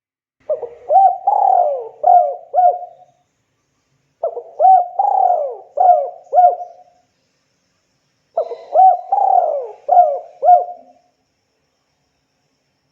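Spotted dove cooing: three phrases a few seconds apart, each a run of about five coos that rise and fall in pitch.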